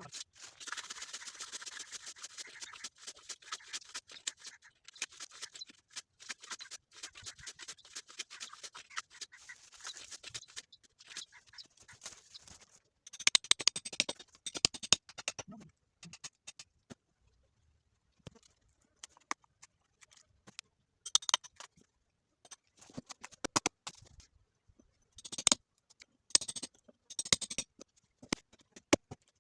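A hand tool scraping and chipping a hole into a plant's stem. Steady fine scraping at first, then separate bursts of sharp scrapes and clicks with short pauses between them.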